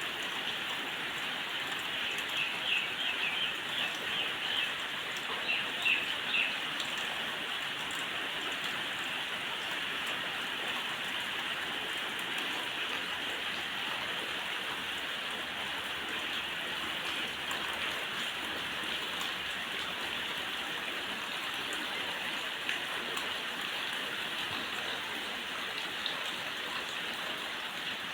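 Steady rushing hiss of water, like rain or running water. Bursts of high, quick bird chirps come in a few seconds in and stop after several seconds.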